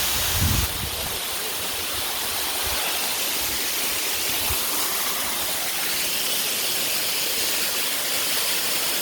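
Waterfall: a steady, even rush of falling water, with a few low thumps in the first second.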